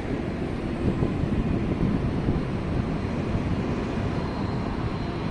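Steady low rumble of passing vehicles, with a faint thin high tone near the end.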